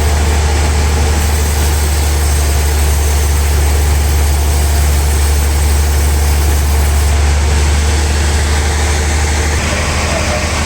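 Sawmill machinery running steadily, with a strong low hum under a constant mechanical din; the low hum shifts slightly near the end.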